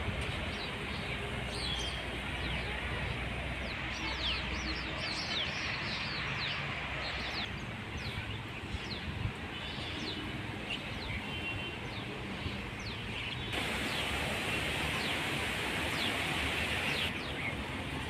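Small birds chirping repeatedly in short falling calls over a steady, even background hiss.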